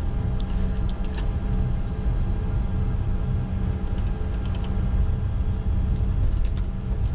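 Cockpit noise of a Bombardier Challenger 605 taxiing after landing: a steady low rumble with a faint constant hum over it.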